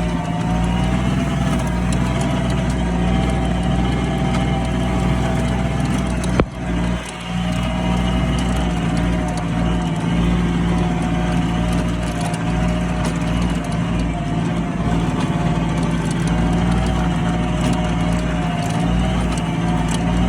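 Kubota B2140 compact tractor's diesel engine running steadily under load while rotary-tilling weeds. About six seconds in there is a single sharp knock, and the sound dips briefly.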